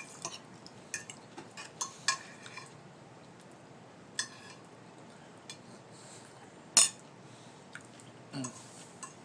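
Cutlery clinking and tapping on dinner plates as people eat: a scattering of short, light clicks, with one louder clink about seven seconds in.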